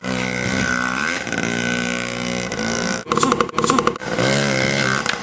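A person belching loudly and at length, a long drawn-out burp that breaks into a rattling pulse partway through.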